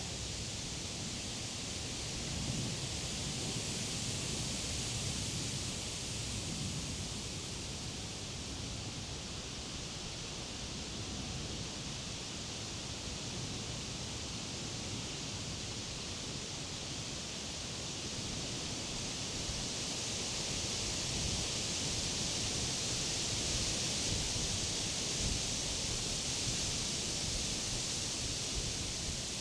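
Summer wind blowing through the leaves of tall trees and grass: a steady rustling hiss that swells in gusts about two-thirds of the way in, over an unsteady low rumble.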